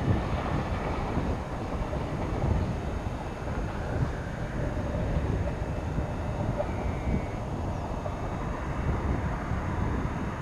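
Railway train moving at low speed, a steady low rumble with a few knocks.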